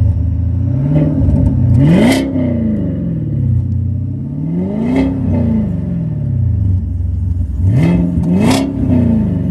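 Chevrolet Camaro SS V8 on a newly installed aftermarket exhaust being blipped from idle: three full revs rise sharply and drop back to a low idle, with a couple of smaller blips between them.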